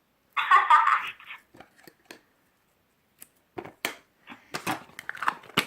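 Handling noises from slime-making: a short crinkling rustle about half a second in, then scattered small clicks and taps of the ingredients being handled.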